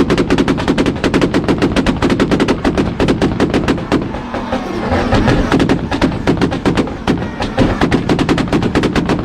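Car engine held on a two-step launch-control rev limiter, its exhaust firing a rapid machine-gun string of loud pops and bangs, about ten a second, easing briefly about halfway through before picking up again.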